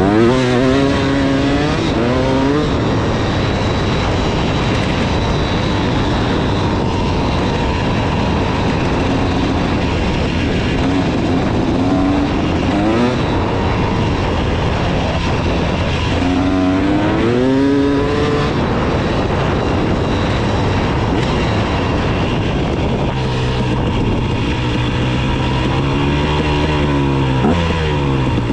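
KTM 300 two-stroke dirt bike engine running under way, the revs rising and falling repeatedly as the rider works the throttle, with a steady rush of noise underneath.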